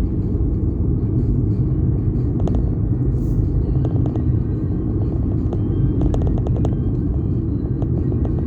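Steady low road and wind rumble of a vehicle driving, with faint scattered clicks and ticks over it.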